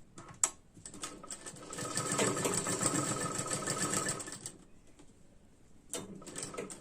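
Sewing machine stitching a seam: a few clicks, then a fast, even run of stitches from about a second in that stops about four and a half seconds in and starts again near the end.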